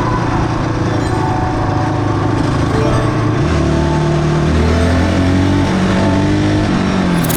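Yamaha Raptor ATV's single-cylinder four-stroke engine running under load, its pitch climbing in steps about halfway through and dropping again near the end.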